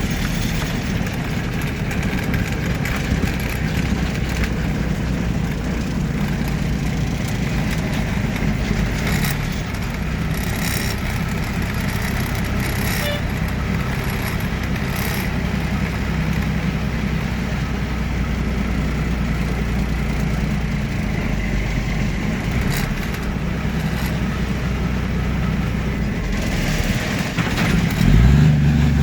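Big-rig truck engine running steadily under way, with road noise. Near the end the engine gets louder and its pitch climbs as it revs up.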